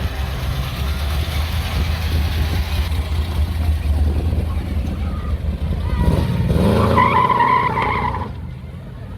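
Car engine rumbling low and steady. About six seconds in it revs up with a rising pitch and a high squeal, then the sound falls away after about two seconds as the car pulls off.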